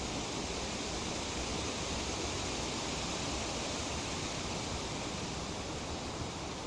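Breeze rustling through tree foliage: a steady, even hiss of leaves with no separate sounds standing out.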